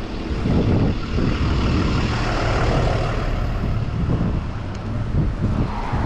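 Wind buffeting the microphone while riding a bicycle, mixed with city road traffic; a motor vehicle passes about two to three seconds in.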